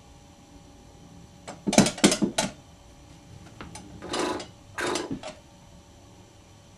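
A quick run of clattering knocks, then two short rustling sounds about a second apart, like small hard objects being handled.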